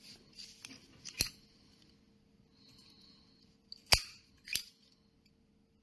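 Zippo lighter's metal case clicking, sharp metallic snaps of the lid opening and closing: small clicks early on, a louder snap about a second in, and two more close together near four seconds.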